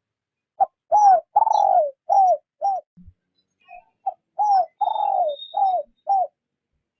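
Spotted dove cooing: two phrases of five low coos, each with a longer, falling middle note, a little over a second apart.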